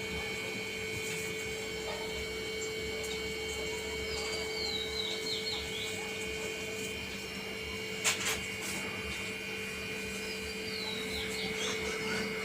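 Steady electrical hum, with a single faint knock about eight seconds in.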